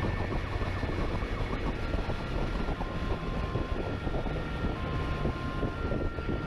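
Motorcycle chase footage: a steady rush of wind and engine noise at speed. From about two seconds in, a siren joins it with a held tone and a lower tone that cuts in and out about once a second.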